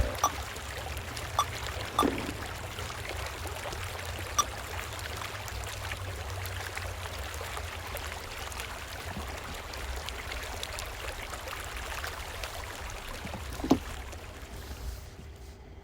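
Creek water rushing and splashing around an all-electric Tesla Cybertruck as it drives through the creek, over a low rumble of tyres in sand, with no engine note. A few sharp knocks come through, the loudest near the end, and the sound then fades out.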